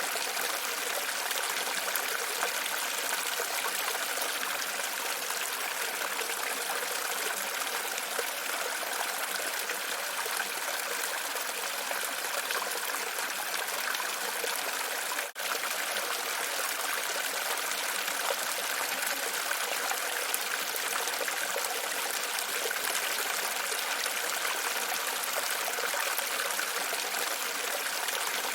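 Steady sound of running water, even throughout, with a brief dropout just past halfway.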